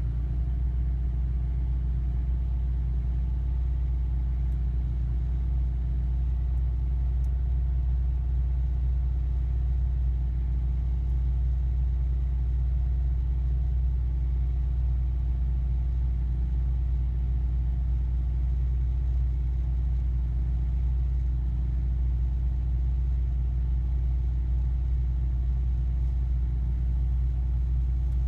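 2005 Acura RSX Type-S's 2.0-litre four-cylinder engine idling steadily just after a cold start. The owner calls the start weak and says the idle is not right, hanging above 2000 rpm and surging back up.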